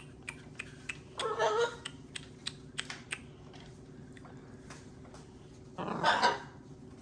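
Two short, harsh macaw squawks, one about a second in and a louder one near the end, with scattered sharp clicks and taps between them.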